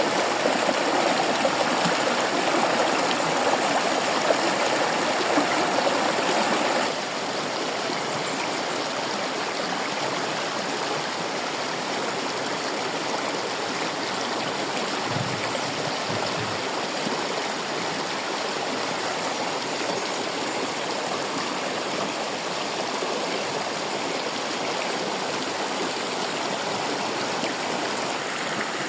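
Fresh water of a stream running and splashing steadily, a continuous rush that becomes a little quieter about seven seconds in.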